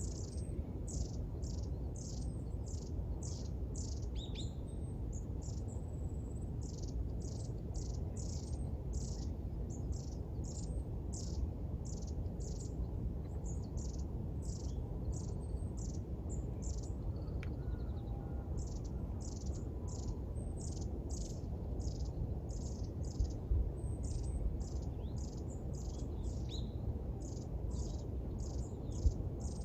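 A bird singing at dawn: a long run of short, high, downward-slurred notes about twice a second, with two brief pauses midway, over a steady low background rumble.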